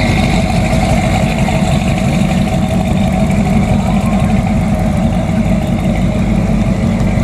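Car engine idling steadily close by, a continuous low, pulsing rumble.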